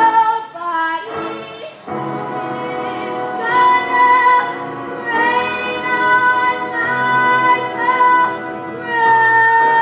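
Music with a young female voice singing long held notes over instrumental backing.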